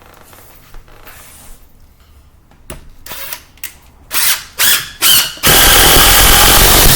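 Power drill with a Phillips bit driving a screw: three short trigger pulls, then a steady run of about a second and a half.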